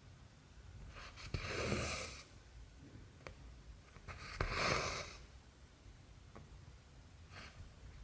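Cotton embroidery thread drawn through cross-stitch fabric, two soft swishes about three seconds apart, with a few faint ticks of the needle between them.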